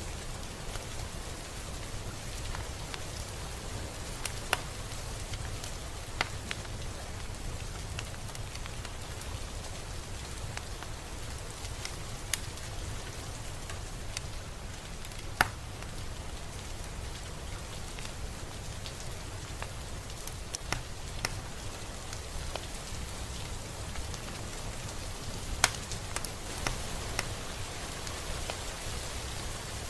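Steady rain falling, with individual drops ticking sharply on a surface at irregular moments.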